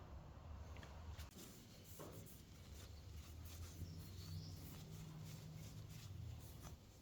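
Faint workshop handling sounds: light scratching and small clicks over a low steady hum.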